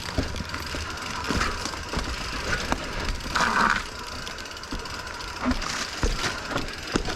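Mountain bike rolling down a rough, rocky technical trail: a steady rumble of tyres over rock with frequent knocks and rattles from the bike.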